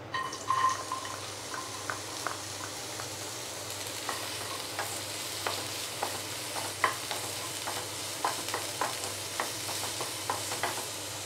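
Chopped green beans sizzling in hot oil in a pan as they are tipped in and stir-fried with a wooden spatula. A steady sizzle runs under frequent light scrapes and taps of the spatula against the pan.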